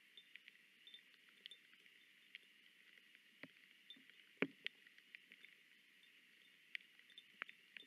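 Raindrops dripping and pattering on the nest, heard as scattered light ticks and taps over a faint steady high hiss. There is one louder knock about four and a half seconds in.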